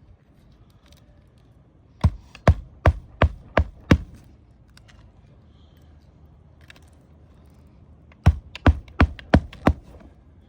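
Hammer driving roofing nails into asphalt shingles: a run of six sharp blows about two seconds in, then five more near the end.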